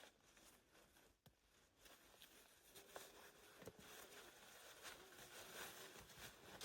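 Near silence: a faint hiss with a few soft clicks and rustles.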